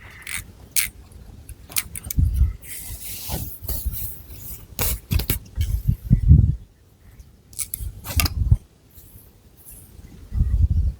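Long fingernails scratching through thick long hair and across the scalp, very close up: irregular sharp scratches and clicks, a stretch of rustling hiss, and dull low rumbles every couple of seconds as the hair is moved.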